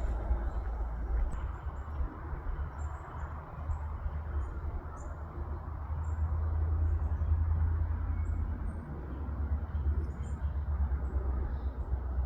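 Small birds giving many short, high chirps over a steady low rumble.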